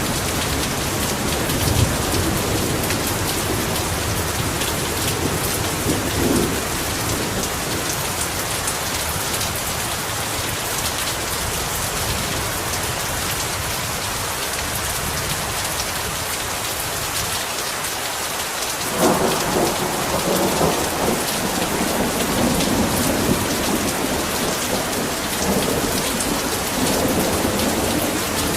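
Heavy rain falling steadily, with low rolls of thunder; a louder rumble of thunder starts suddenly about two-thirds of the way through and rolls on for several seconds.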